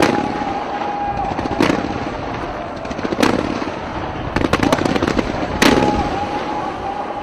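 Aerial fireworks exploding: sharp bangs about every second and a half, a quick run of crackling pops midway, and the loudest bang near the end, over a continuous rumble, with a steady whistling tone under some of the bangs.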